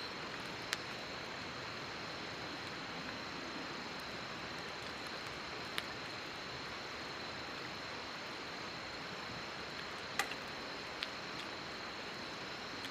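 Wood campfire burning: a steady hiss with a few sharp, scattered pops and cracks, and a faint steady high-pitched tone behind it.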